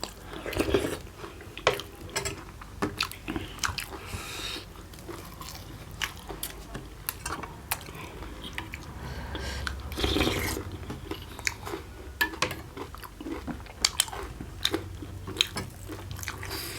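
Close-miked eating sounds: people chewing and biting green maize flatbread, with irregular wet smacks and small clicks.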